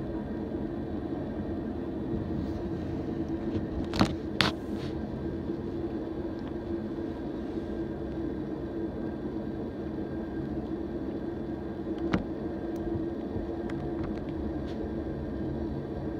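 A Norfolk Southern oil train of tank cars rolling past with a steady rumble. Two sharp bangs come about four seconds in, less than half a second apart, and another comes near twelve seconds.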